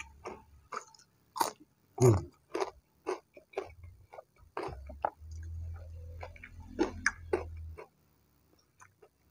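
Close-up chewing of battered fried tempeh, with many short, sharp crunchy clicks at an irregular pace and a low hum for a few seconds in the middle. The chewing stops about a second before the end.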